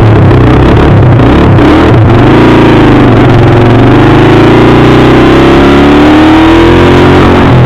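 Dirt bike engine running loud under throttle, its pitch rising and dropping about two seconds in, then climbing steadily through the second half as it accelerates.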